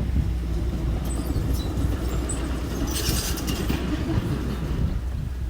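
Engine of a small earthmoving machine running steadily, with a brief hiss about three seconds in.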